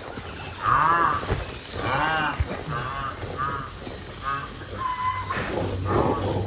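Rhinoceros squealing: a series of short calls, about one a second, each rising and then falling in pitch.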